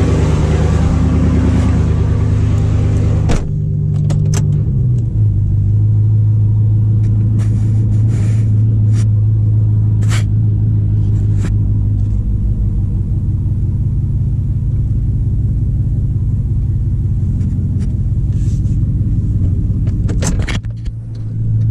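2008 Chevy Silverado's 5.3-litre V8 running steadily at idle after a cold start from sitting a month. There is a sharp click about three seconds in, and the engine note settles a little lower a second later. A few light knocks follow.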